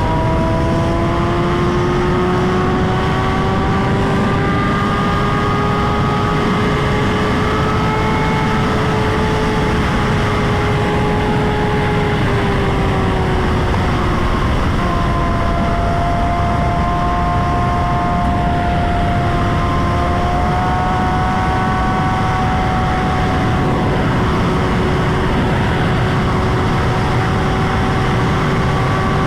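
Motorcycle engine running under way amid a loud, steady rush of wind and road noise. Its note climbs slowly, drops about twelve seconds in and again later, then holds steady.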